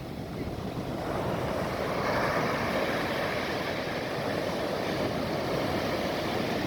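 Ocean surf on the Bay of Bengal shore: a wave rolling in and breaking, its rushing noise swelling about a second in and carrying on as the water washes up.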